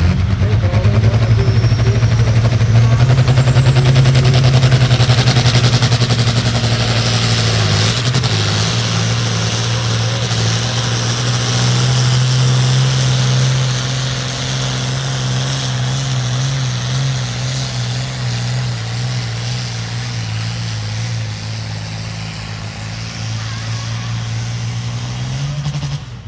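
Pulling tractor's engine running hard under load during a pull, a loud steady drone that slowly grows quieter over the second half and stops suddenly near the end.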